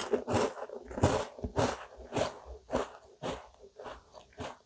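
Close-miked chewing of a bite of chocolate digestive biscuit, wet mouth sounds at about two chews a second that fade toward the end.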